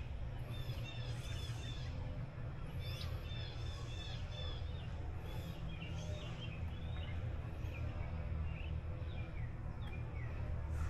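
Small birds chirping, many short notes repeated throughout, over a steady low outdoor background rumble.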